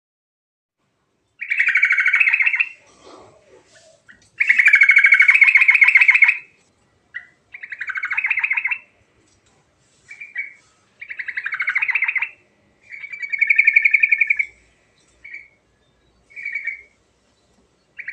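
Yellow-vented bulbul (trucuk) singing: a series of loud, bubbling phrases made of fast repeated notes, the longer ones about two seconds each, with short pauses between them.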